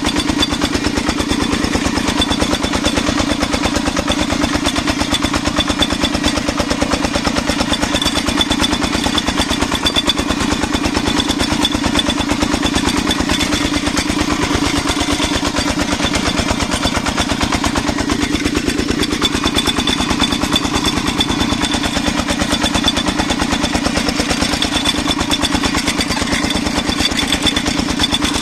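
Single-cylinder diesel engine of a Vietnamese công nông farm truck running steadily under load, a rapid even chugging, as it climbs a slope.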